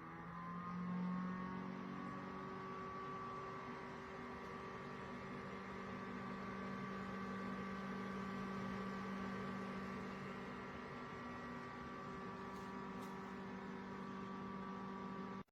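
A steady electric hum made of several held tones, rising in pitch over the first second or two and then holding level, before cutting off abruptly at the end.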